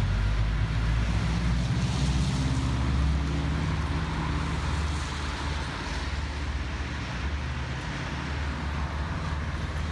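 Motorcycle engine running steadily while riding, with wind rushing over the helmet-mounted microphone.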